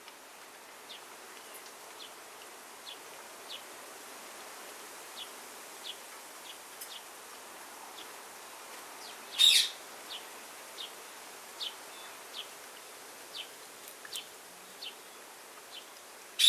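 Parrots in an aviary: soft, short high chirps every second or so, and one brief loud squawk about nine and a half seconds in, a short scolding call that is all the telling-off it gives.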